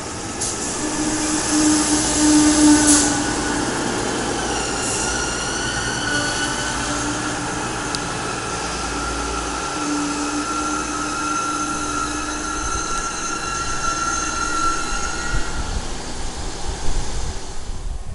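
CrossCountry Voyager diesel-electric multiple unit running into the platform, its engines rumbling under a high, steady squeal as it slows. Loudest about two to three seconds in.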